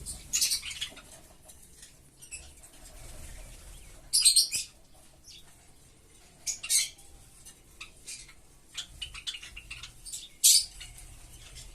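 Pet Java sparrows and budgerigars at feeding time: short, high chirps and wing flutters, about four louder bursts spread out, with fainter clicks and chirps in between.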